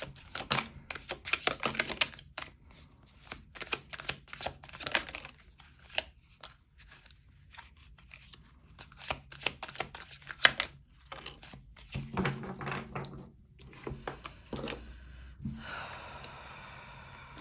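Tarot cards being shuffled by hand: irregular bursts of crisp card clicks and rustling, with a longer hissing riffle near the end.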